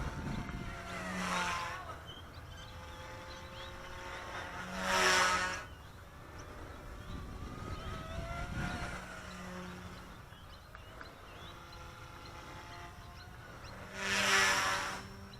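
Eachine E120S micro RC helicopter's direct-drive brushless main motor and rotor whirring with a thin whine while flying figure eights. It sweeps close by three times, loudest about five seconds in and near the end, and the whine slides up and down in pitch with each pass.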